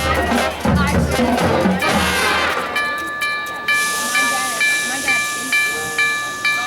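Marching band brass and drums playing, breaking off after about two and a half seconds into a train sound effect. The effect is a steady whistle-like chord with an even chime about twice a second, with steam hiss joining in soon after.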